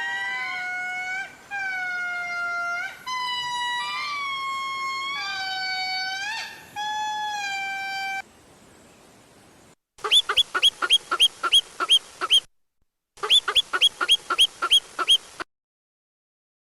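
Animal calls: first a run of long, drawn-out pitched calls, each about a second long, then after a short pause two bouts of rapid pulsed calls at about seven a second.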